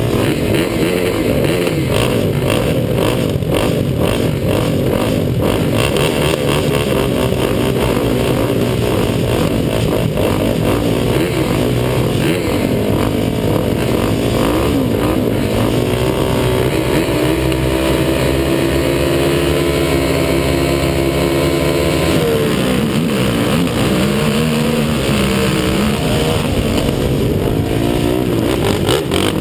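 Racing quad (ATV) engines revving hard, the pitch rising and falling with throttle and gear changes and several engines overlapping. For a few seconds past the middle, one engine holds steady revs.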